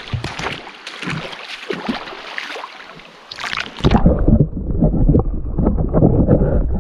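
Creek water splashing and sloshing close to the microphone as a small jungle perch is let go; about four seconds in it turns loud and muffled, the high end suddenly gone, a low churning of water.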